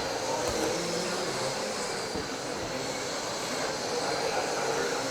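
Several RC trucks with 21.5-turn brushless electric motors running laps together: a steady mix of high motor whine and tyre noise, with the pitch wavering as the trucks speed up and slow.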